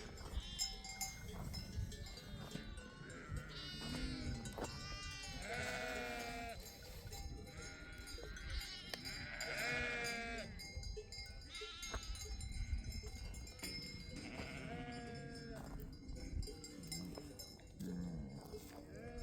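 A flock of sheep and goats bleating, several separate drawn-out calls a few seconds apart.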